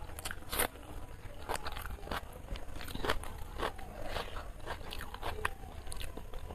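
Close-up eating sounds: a bite of raw onion crunched and chewed with a mouthful of biryani, giving irregular crisp crunches and wet mouth clicks, the loudest about half a second in.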